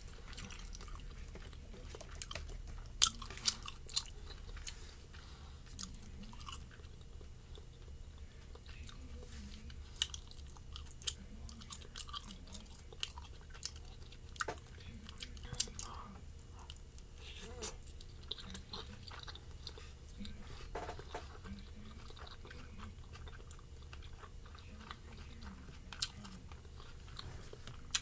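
Close-miked chewing and wet mouth sounds of someone eating pan-fried dumplings, with sharp clicks and smacks scattered throughout, the loudest about three seconds in.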